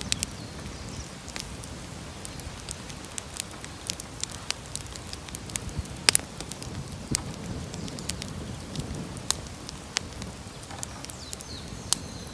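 Wood bonfire crackling: irregular sharp pops and snaps, with one louder snap about six seconds in, over a steady low rush.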